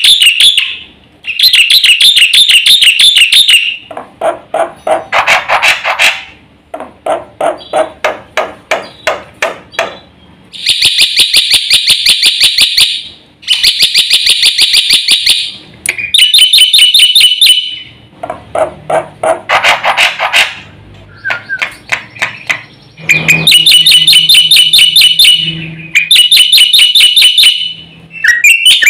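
Black-winged myna (jalak putih) singing loudly in phrases of a few seconds with short pauses: fast buzzy trills alternate with harsh rattling chatter. This is a full song packed with varied fills (isian).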